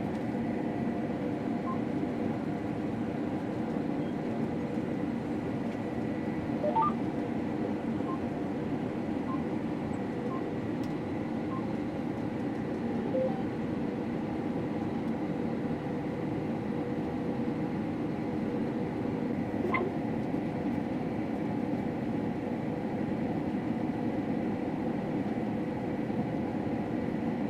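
Combine harvester running steadily, heard from inside the cab: an even mechanical hum with a constant high whine. A few short electronic beeps come through in the first half.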